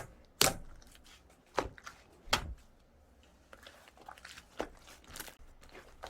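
Clay slime being squished and pressed by hand, making wet pops and clicks: three sharp ones in the first two and a half seconds, then a run of softer crackles.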